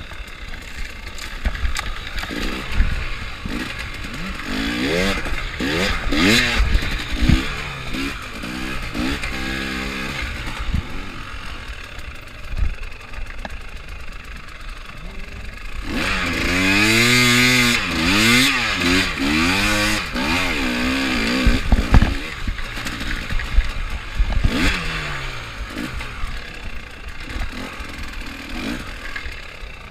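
Enduro motorcycle engine revving up and down as the throttle is worked over rough dirt, with a longer hard pull of revs about halfway through. Knocks and clatter from the bike over the bumps are mixed in.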